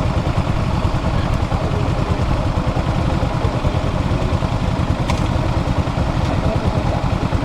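Yamaha SR400's air-cooled single-cylinder four-stroke engine idling steadily, a fast low pulsing beat.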